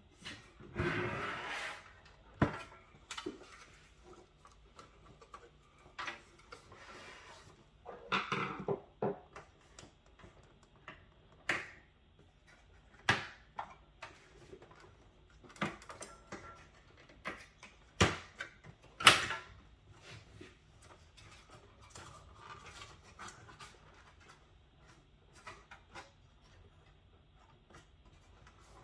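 Irregular clicks, knocks and short scrapes of plastic and metal parts being worked loose as an Alienware Aurora R10 desktop case is taken apart. The sharpest knock comes about two-thirds of the way through.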